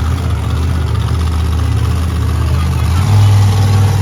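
Monster truck engine running with a deep, steady sound, stepping up in pitch about three seconds in as it revs.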